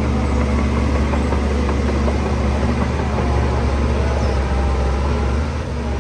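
Heavy diesel engine of earthmoving machinery running steadily, with a deep low drone.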